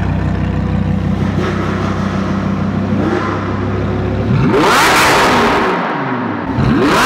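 Car engine idling with a steady low drone, then revved hard about four seconds in, dropping back, and revved again near the end.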